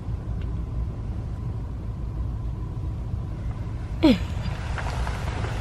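Steady low rumble of a car idling, heard from inside the cabin. About four seconds in, a short squeak that falls quickly in pitch, followed by a brief rush of hissing noise.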